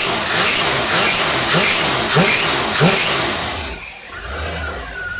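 Test engine fed by a Motorcraft 4300 four-barrel carburetor revved in about six quick throttle blips, each rising in pitch, then settling back to idle near the end. The blips open the carburetor's rear barrels, showing the secondaries working.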